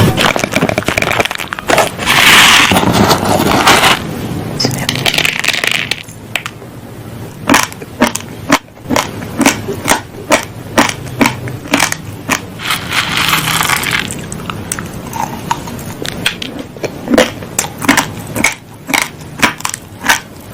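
Raw, uncooked basmati rice grains being chewed close to the microphone: sharp, crisp crunches about two a second, with stretches of denser, continuous grainy crunching in the first few seconds and again about 13 seconds in.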